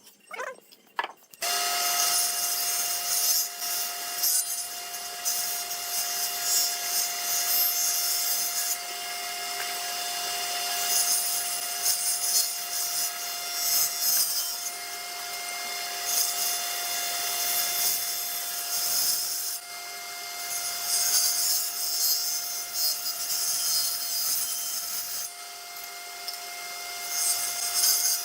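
Electric power tool working wood: a steady motor tone under a loud hiss of tool against wood that swells and eases as the work goes on. It starts about a second in.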